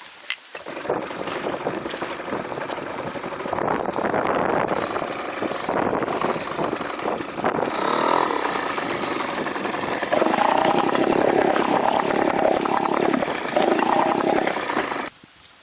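An engine running, its pitch and level shifting as it goes, cutting off abruptly about a second before the end.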